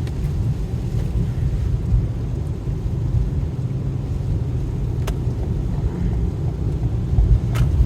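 A car being driven, heard from inside the cabin as a steady low road-and-engine rumble, with a couple of light clicks in the second half.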